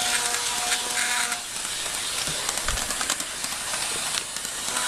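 Athearn HO scale CSX EMD GP50-2 model locomotive running on the track: its motor and gears give a steady whine that fades about a second and a half in, leaving a hissing rattle of wheels on rail with small clicks. This engine runs a lot louder than the owner's other model.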